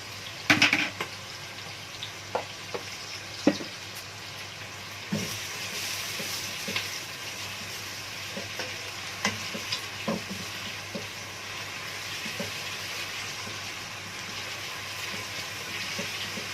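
Diced onions and garlic sizzling in ghee in a pot while being stirred, the utensil clicking and knocking against the pot; the loudest knock comes about half a second in. The sizzle grows slightly stronger about five seconds in.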